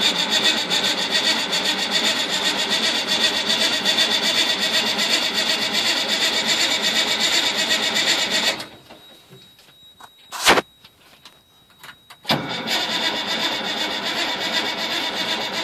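The Cummins inline-six diesel of an M931 5-ton army truck being cranked on the starter in freezing cold after a shot of ether, turning over without catching. The cranking stops about 8.5 s in, a single sharp click comes about two seconds later, and cranking starts again about 12 s in.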